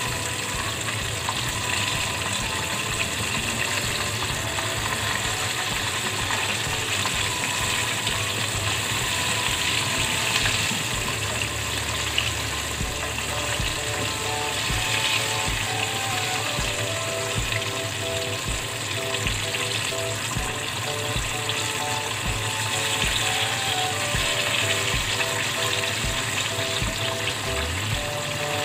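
Chicken pieces deep-frying in a pot of hot oil, a steady sizzle throughout, with background music playing over it.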